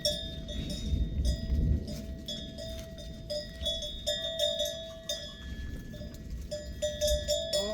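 Bells on a herd of goats clanking irregularly and continuously as the animals move, over a low rustling noise.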